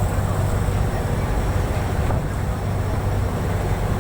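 Boat engine droning steadily, with wind and water noise over it.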